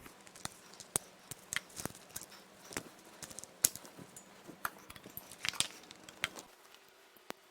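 Scattered clicks, taps and light rattles of hand work on a bare engine, as wiring-harness connectors and small parts are handled; the sharpest click comes about three and a half seconds in.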